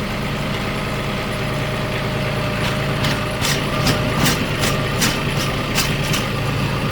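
RK37 compact tractor's diesel engine running steadily. From about two and a half seconds in, a string of sharp, irregular ticks and clicks sounds over it.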